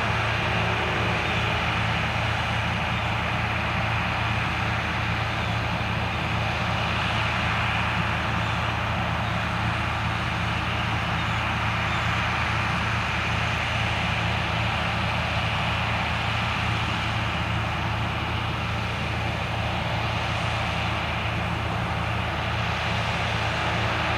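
New Holland combine harvester running steadily while harvesting corn: a constant low engine hum with machinery noise over it, unchanging throughout.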